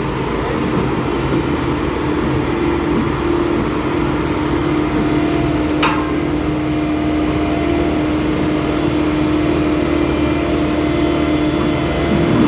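Bomag vibratory roller's diesel engine running steadily under load, with a steady whine over the engine note. A single sharp click about six seconds in.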